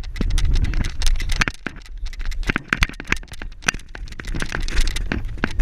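Wind rumbling on the microphone during a bicycle ride, with many irregular clicks and crackles.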